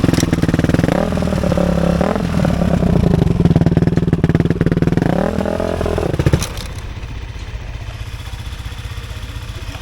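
Dirt bike engine running after a kick start, rising and falling in pitch as it is revved, then cutting out suddenly about six and a half seconds in as it stalls.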